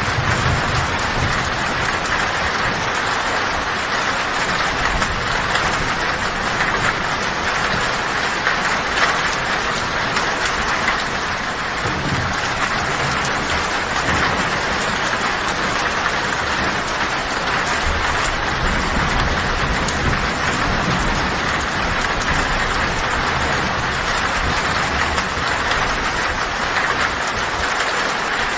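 Heavy rain falling steadily on a tin roof, with low thunder rumbling at the start and again around two-thirds of the way through.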